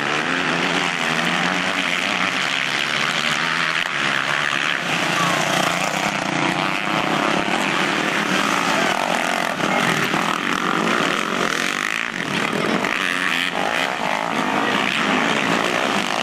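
Several motocross motorcycle engines running and revving at once, a dense buzzing whose pitch rises and falls as the bikes accelerate and shift.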